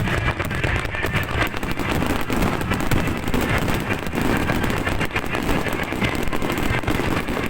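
Fireworks finale: a dense, continuous rapid-fire barrage of crackling bursts and bangs with no pauses.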